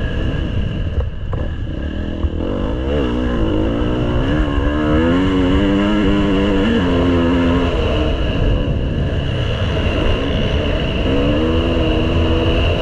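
Motocross bike engine revving through the throttle as it rides: the pitch climbs about three seconds in, holds with small steps, falls off around seven seconds, then rises again near the end.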